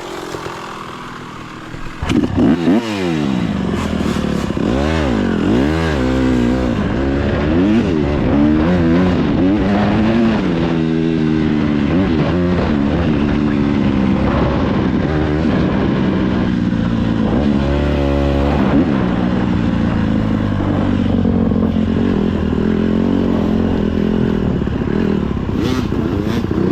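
Dirt bike engine starting again about two seconds in after a stall, revved up and down several times, then running steadily with its pitch rising and falling as the bike is ridden.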